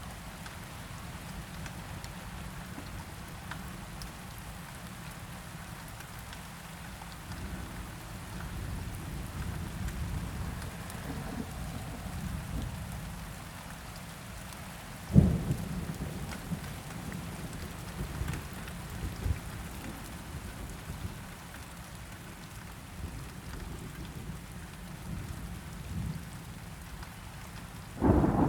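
Steady rain falling with low rolling thunder. A sharp thunderclap comes about halfway through, and a louder roll of thunder breaks just before the end.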